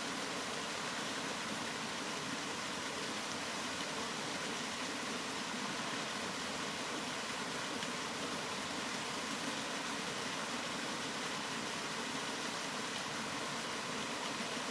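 Steady rain, an even, unbroken hiss. No single drops, thunder or other events stand out.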